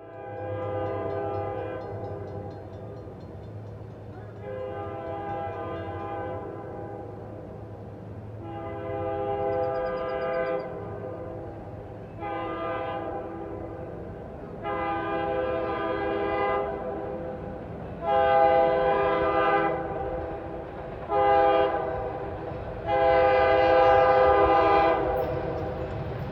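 Diesel locomotive horn sounding a chord in eight blasts over a steady low diesel engine rumble, the blasts growing louder as the train nears. The last four blasts run long, long, short, long, the grade-crossing signal.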